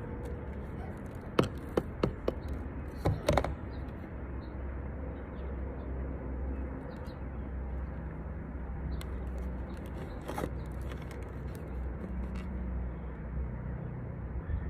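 Light knocks and clicks from handling plastic seed pots and potting soil while topping the pots off, a cluster of them a second or two in and one more near the end, over a steady low rumble.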